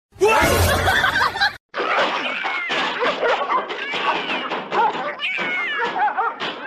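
People laughing and chuckling, in two short stretches split by a brief break about a second and a half in.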